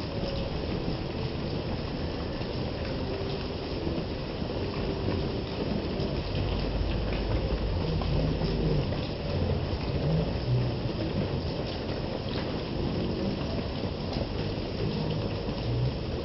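Heavy rain falling steadily, a dense hiss with separate drops spattering through it. A low rumble runs beneath the rain and swells for a few seconds midway.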